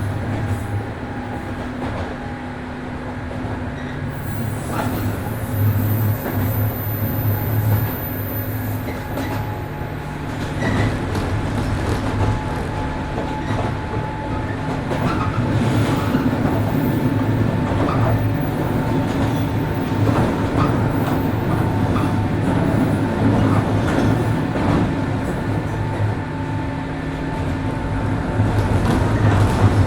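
Running sound of a JR Kyushu 103 series 1500 subseries electric train heard from inside the car: a steady low hum from its DC traction motors and wheels on the rails, with scattered short clicks. It grows a little louder near the end.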